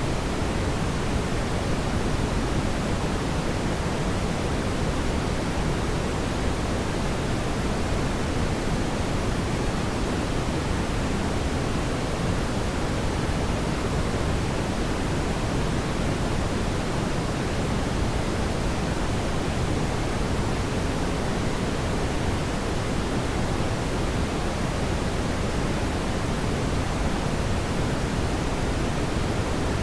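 Steady, even rushing noise of a fireplace fire, heaviest in the low end, with no distinct crackles or pops.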